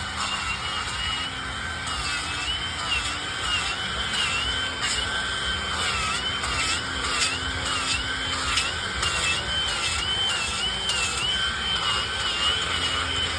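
Power tool carving wood: a high motor whine whose pitch dips again and again, about every half second, as the tool bites into the wood and eases off.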